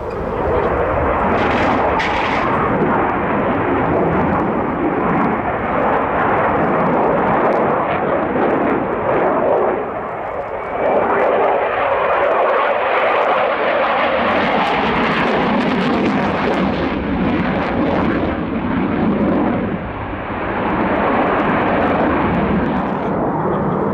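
Swiss Air Force F/A-18 Hornet's twin jet engines, loud and sustained as the fighter flies its display, dipping briefly about ten seconds in and again near twenty seconds before swelling back.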